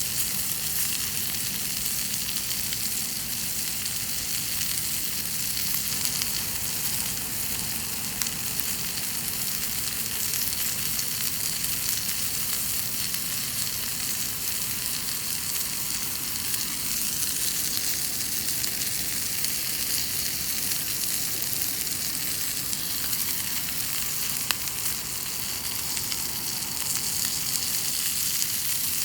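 Chicken thighs frying in a cast-iron skillet over a campfire: a steady sizzle with an occasional sharp pop.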